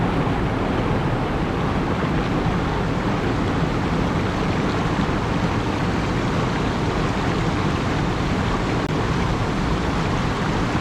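Steady, even rushing noise with no distinct events or pitch, deepest and strongest in the low range.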